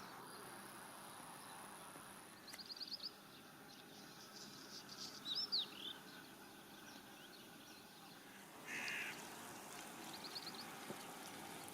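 Faint wild birds calling: a quick trill, a few whistled notes, a harsher call about nine seconds in, and another short trill near the end.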